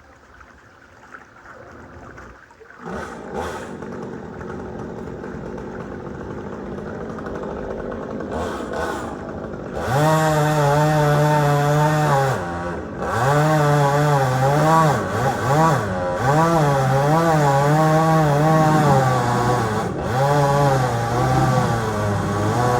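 Two-stroke chainsaw cutting post oak. It is quieter for about the first ten seconds, then runs loud at high revs, its pitch wavering up and down, with a few brief drops when the throttle eases.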